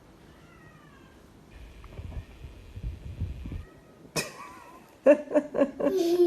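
Domestic cat meowing, faint gliding calls at first, with loud pulsing vocal cries about a second before the end.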